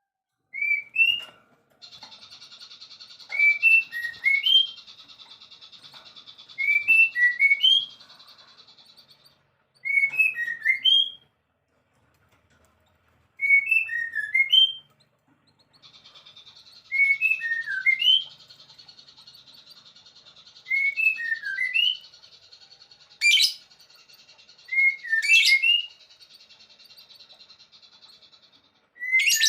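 A songbird repeats a short phrase of a few quick whistled notes about every three seconds. Behind it, a steady high buzzing trill comes and goes. Three sharp clicks sound near the end.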